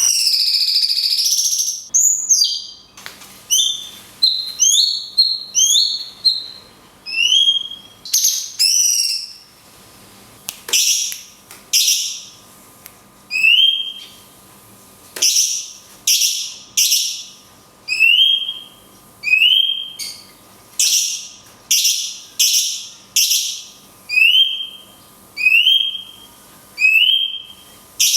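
Cucak cungkok singing: a long loud call to open, then a steady run of short, sharp whistled calls about once a second, most with a quick upward slur.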